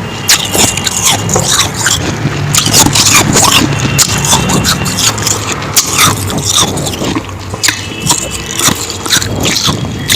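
Close-miked crunching of fresh powdery ice being bitten and chewed: a loud, dense run of irregular crunches.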